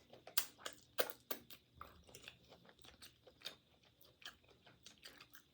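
A person chewing and biting food with crisp crunches, a run of short sharp bites, the loudest about a second in.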